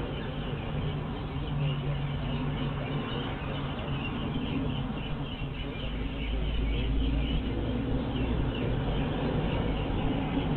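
A car engine running steadily, with a deeper rumble swelling about six seconds in.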